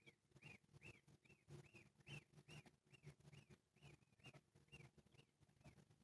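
Faint, steady chirping of a bird: short rising-and-falling chirps repeated about two to three times a second.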